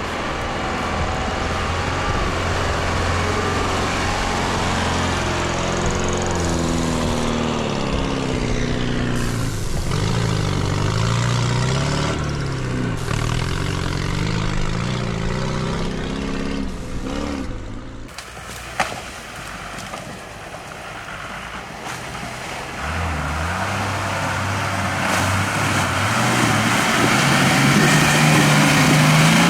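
Heavy off-road racing truck engines revving and working hard, the pitch climbing and falling with the throttle. A quieter stretch begins about two-thirds of the way in, with one sharp click, and then the engines rev louder again near the end.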